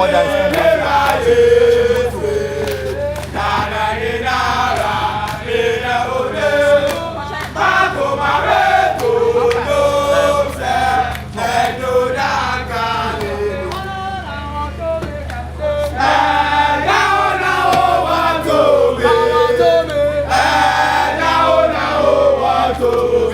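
A group of people singing together, men's voices to the fore, over a steady low hum.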